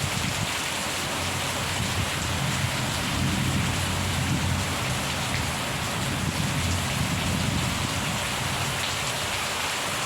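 Steady heavy rain falling and pattering on surfaces. Underneath it a low rumble of distant thunder rises and falls from a couple of seconds in.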